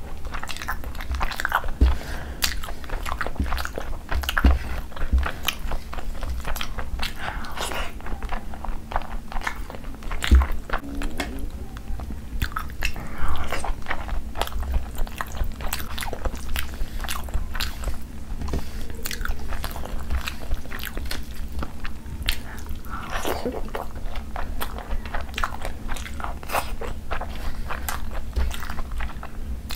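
Close-miked chewing and wet mouth clicks of a person eating rice and curry by hand, a dense, irregular run of small smacks and crunches.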